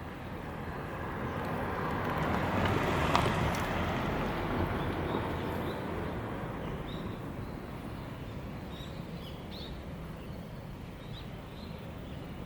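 A vehicle passing by, its noise swelling to a peak about three seconds in and then fading, with faint bird chirps afterwards.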